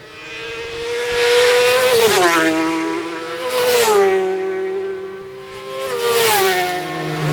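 Road-racing motorcycles passing at speed one after another, about three in turn. Each engine grows loud as it comes by and then drops sharply in pitch as it goes past.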